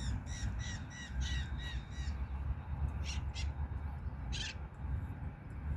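Birds calling outdoors: a quick run of short, repeated chirping calls over the first two seconds, then a few harsher, rasping calls, over a steady low rumble.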